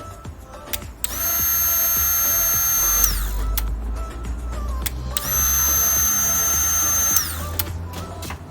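Cordless power drill run twice, about two seconds each time, with a steady high whine that winds down in pitch as the trigger is released.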